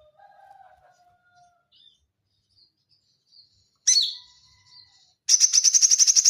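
Konin bird singing: a few soft whistles and high chirps, a sharp call about four seconds in, then a loud, high, rapid trill of about ten notes a second that starts near the end. This is the dense 'tembakan' (rapid-fire) song used to tutor white-rumped shamas.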